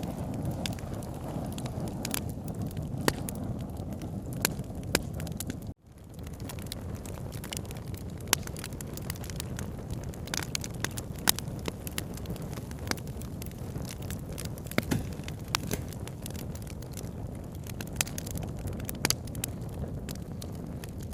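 Campfire crackling, with irregular sharp pops and snaps over a steady low rumble. About six seconds in the sound cuts out for an instant and then fades back in.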